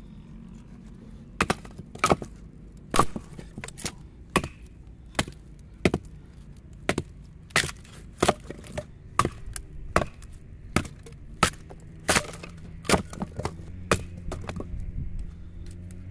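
Ka-Bar BK2 fixed-blade knife chopping wood: a run of about twenty sharp strikes, roughly one every two-thirds of a second, starting after a short pause and stopping near the end.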